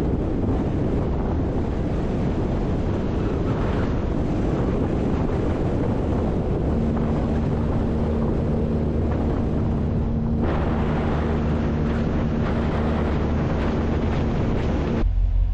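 Salt truck driving on the road while spreading: steady engine and road noise with wind on the microphone. A steady hum comes in about seven seconds in, and the sound changes abruptly near the end.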